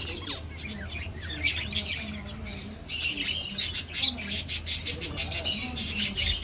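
A flock of aviary finches chirping and calling, many short high calls overlapping. The calls become denser and busier about three seconds in, over a steady low hum.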